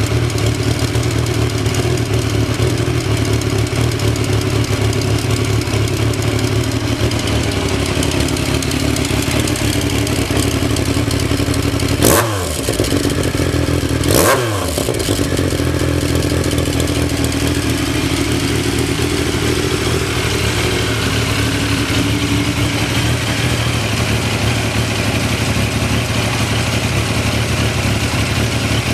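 1998 Triumph motorcycle engine idling steadily, with two brief throttle blips about two seconds apart around the middle, settling straight back to an even idle.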